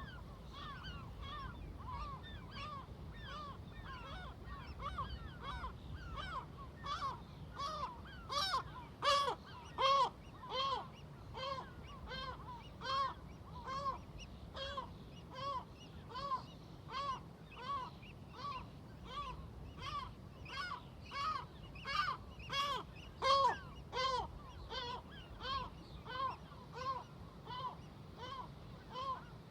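A flock of seagulls calling over and over in short arched calls, about two a second, loudest about a third of the way in and again past two thirds. A low steady rumble sits underneath.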